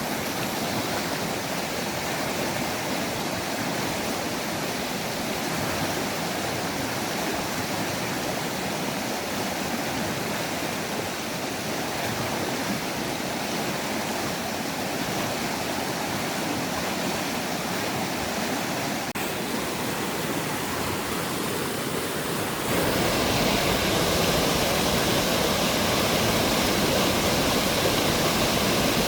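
Rain-swollen mountain stream rushing in a steady roar of water. It gets louder and fuller about three-quarters of the way through.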